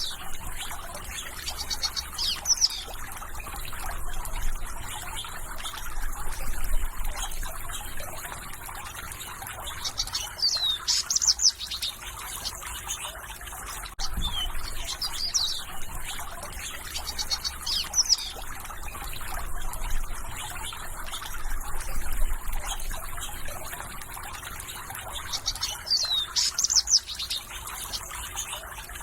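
Songbirds singing in short recurring phrases of high chirps and downward-sweeping notes, over a steady trickle of flowing water.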